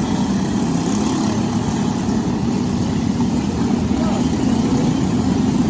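Briggs & Stratton LO206 kart engine, a single-cylinder four-stroke, running steadily at racing speed.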